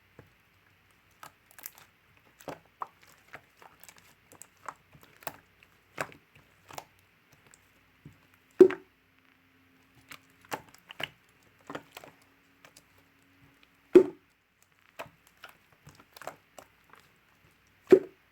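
Mixed slime being pressed and played with by hand, making scattered small clicks and crackles with three louder pops about five seconds apart.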